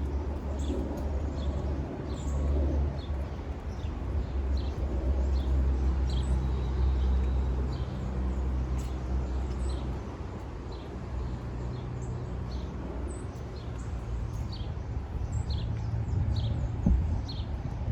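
Small birds chirping, many short falling notes repeated throughout, over a steady low rumble, with a brief low bump near the end.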